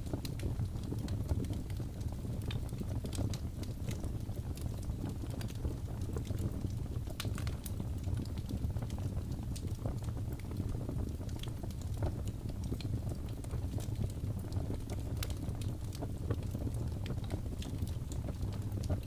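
Wood fire burning with a steady low rumble of flames and frequent small, sharp crackles and pops scattered irregularly throughout.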